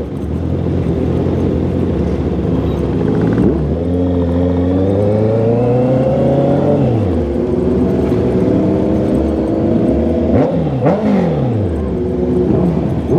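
Honda CB650R's inline-four engine and exhaust under way. The revs climb steadily through a gear from about four seconds in and drop away near seven seconds. Around ten to eleven seconds they fall and rise sharply several times in quick succession.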